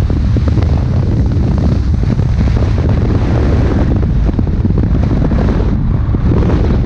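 Heavy wind buffeting on the microphone of a moving vehicle, a loud steady low rumble with road and engine noise underneath.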